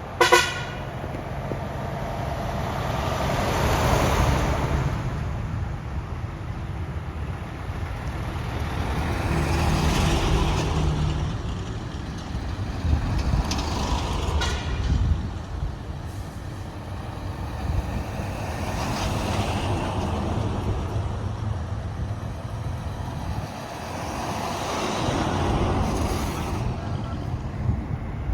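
Decorated trucks and trailer rigs driving past one after another, their diesel engines swelling and fading about four times. A short, loud, pitched blast comes right at the start.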